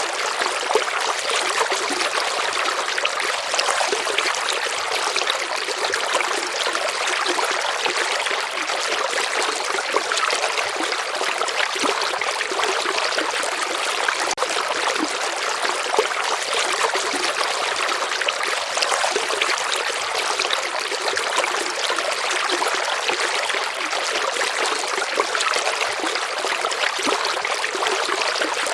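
A stream of water trickling and babbling steadily over stones, a bright splashing noise without pauses or change.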